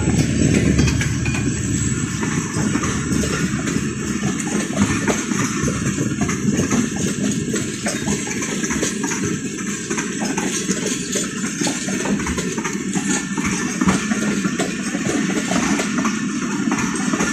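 Passenger coaches of a departing train rolling past at low speed, their wheels clattering over rail joints and points in a quick uneven rhythm. A deep diesel locomotive rumble fades out in the first second.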